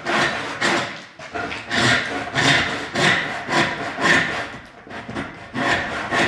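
Hand saw cutting into a log in steady back-and-forth strokes, roughly two a second. The saw is cutting the shoulder kerf about an inch deep around the log for a tenon.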